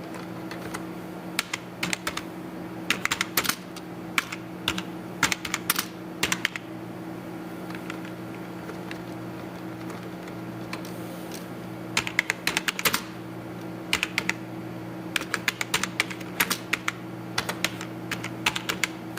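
Computer keyboard typing in short bursts of keystrokes, with a pause of several seconds in the middle, over a steady low hum.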